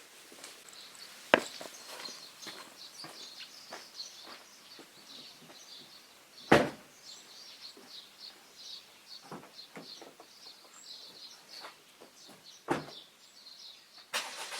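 Wood campfire crackling with small snaps and three louder pops, while small birds chirp high and continuously in the trees.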